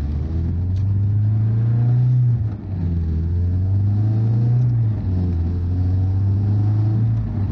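BMW E36's engine heard from inside the cabin, pulling up through the revs with an upshift about two and a half seconds in. It pulls again, shifts again about five seconds in, then runs steadily.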